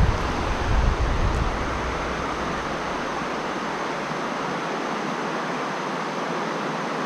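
Steady rush of stream water running over rocks, with low rumbling on the microphone during the first second and a half.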